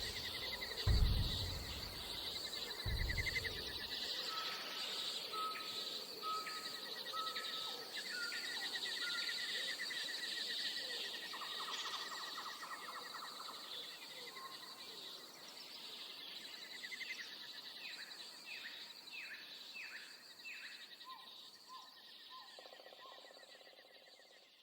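Jungle ambience: steady high insect trilling with birds calling over it, first a run of short repeated notes and later several downward-sweeping calls, all fading out near the end. Two deep thumps sound in the first few seconds.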